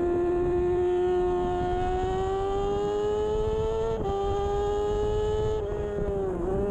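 2013 Kawasaki Ninja 636's inline-four engine at high revs under race acceleration, its pitch climbing steadily, with a brief break about four seconds in as it shifts gear, then dropping near the end as the bike slows, over wind rush.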